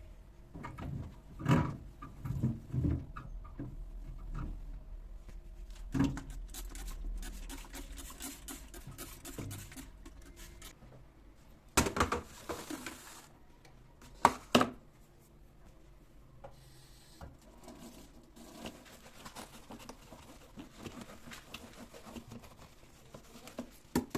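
Kitchen handling sounds: scattered knocks and taps of things being picked up and set down, with a brief rustle about twelve seconds in and a quick double knock soon after, then quieter small ticks.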